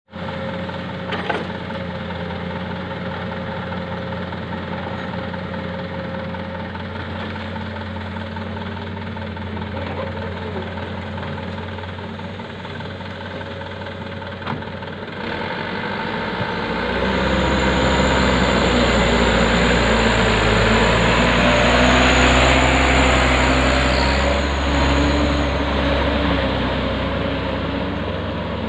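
Heavy diesel engine running steadily at idle, then working harder and louder from about 17 seconds in.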